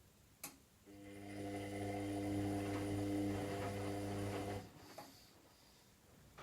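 Washing machine drain pump: a relay click, then a steady mains hum for about four seconds that swells over its first second and cuts off suddenly, followed by another click.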